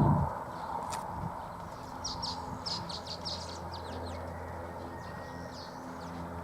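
Small birds chirping in a quick run of short calls for a second or so, then a few scattered ones, over steady outdoor background noise with a low hum.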